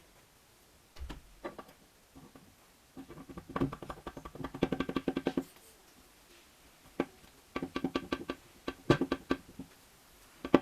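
Irregular clusters of metallic clicks and taps, each with a short ringing tone at the same pitches, as metal engine parts are handled and knocked against each other.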